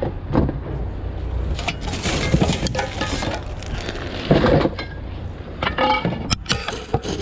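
Loose scrap metal clinking and clattering in a series of separate knocks as it is handled and dropped, over a steady low hum.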